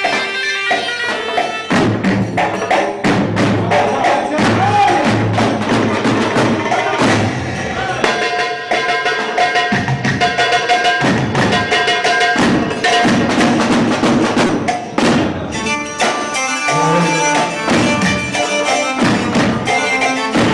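Live traditional Arabic band music without vocals: quick, dense percussion strikes over a held melody line.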